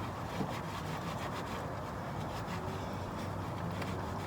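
Hot engine oil draining in a steady stream from the oil pan into a drain container, a continuous even splashing hiss.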